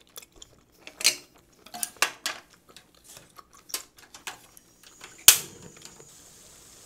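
Close-miked chewing of a mouthful of butter-grilled abalone, with small wet mouth clicks. A sharp clack of chopsticks against the metal tray about five seconds in is the loudest sound.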